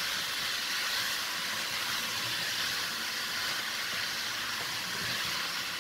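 Chunks of pumpkin and tomato sizzling in oil and butter in a pot as they are stirred with a wooden spoon: a steady, even hiss.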